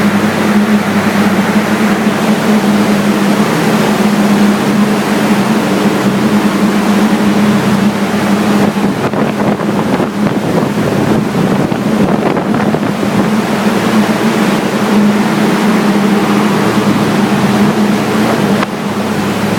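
Turbocharged Nissan SR20DET four-cylinder with a Garrett GT2871 turbo running loud under load on a hub dyno, held at one steady engine speed with no revving up or down, typical of a steady-state hold during ECU mapping.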